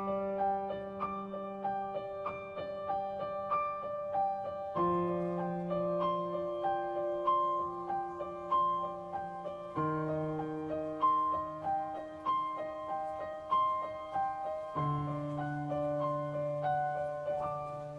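Background piano music: a gentle repeating arpeggio over held bass notes, with the chord changing about every five seconds.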